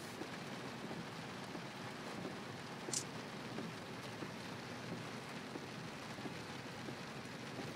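Steady rain pattering on a car, heard from inside the cabin, with one short sharp tick about three seconds in.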